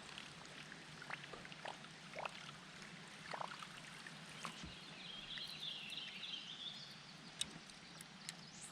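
Faint creek water trickling, with small scattered splashes and drips, and a brief high chirring a little past halfway.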